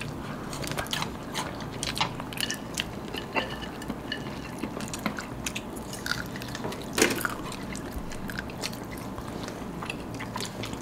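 Close-up chewing and biting of crispy-coated fried chicken and a chicken burger: irregular crackly crunches and mouth clicks, with one louder crunch about seven seconds in.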